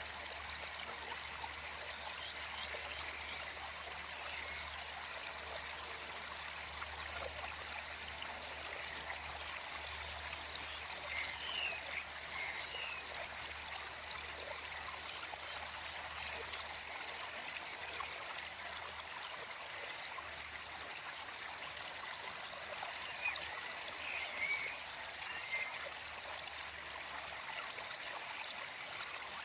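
Small forest stream flowing steadily, with a few short, high chirping calls scattered through it in small groups: near the start, about a third of the way in, and again near the end.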